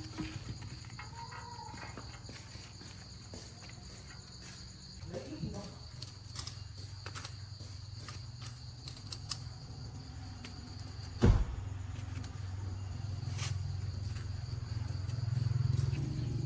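Steady insect chirping, likely crickets, held at a constant high pitch over a low hum, with scattered light clicks and one loud knock about eleven seconds in.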